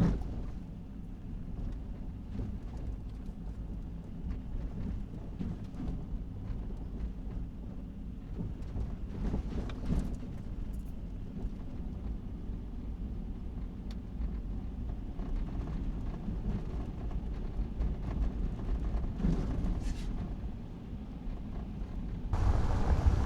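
Pickup truck driving on a dirt mountain road: a steady low rumble of engine and tyres, with a few faint clicks and knocks from the road.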